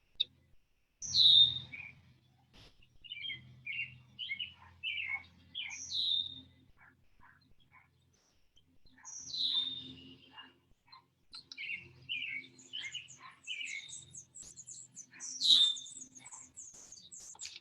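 Wild birds chirping and calling: runs of short repeated chirps, with a few louder, higher calls that drop in pitch, about four of them, spread across the stretch. A faint low hum comes and goes underneath.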